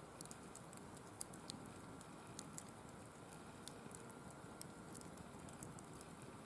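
Firewood burning in a wire-mesh fire pit, crackling faintly: many irregular sharp pops and ticks over a low steady rush.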